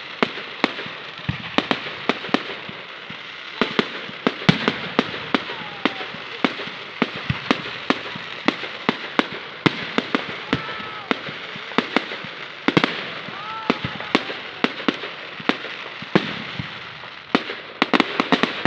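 Fireworks display: aerial shells bursting in rapid succession, several sharp bangs a second over continuous crackling, with a few short whistling tones in between.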